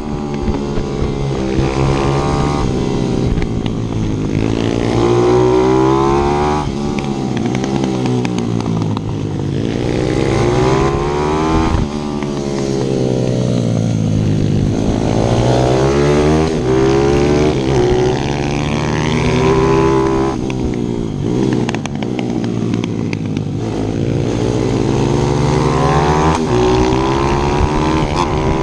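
Single-cylinder four-stroke pit bike engines revving hard, pitch climbing through the gears and dropping off again for corners. A second engine's tone is heard crossing the main one at times, as other bikes ride close by.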